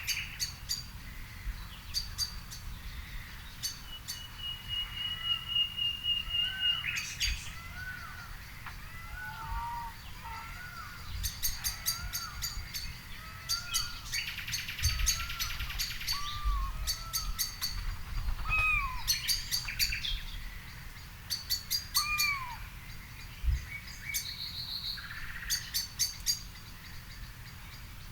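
Several birds calling and singing together in a garden: bursts of rapid high chirps, a held high whistle about four seconds in, runs of short arched lower notes, and a fast trill near the middle, over a faint low background rumble.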